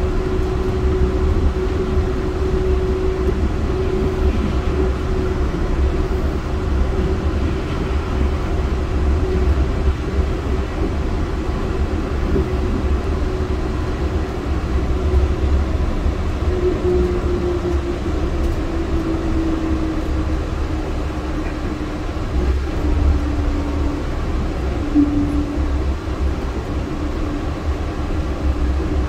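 Yurikamome driverless rubber-tyred train running, heard from inside the car: a steady low rumble with a whine that holds its pitch, then falls gradually in the second half.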